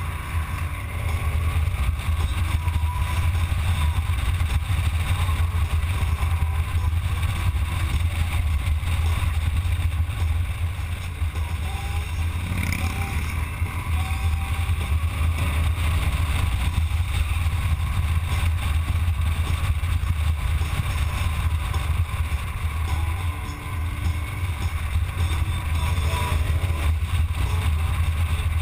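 Motorcycle engine running steadily under way, a loud low hum with wind noise over the microphone; it eases off briefly about three quarters through, then picks up again.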